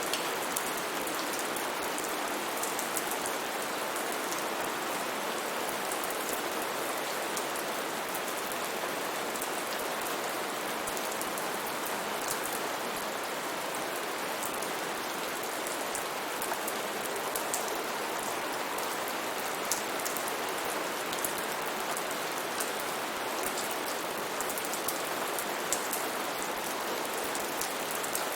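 Steady rain falling, an even hiss of rainfall with scattered individual drops ticking out above it.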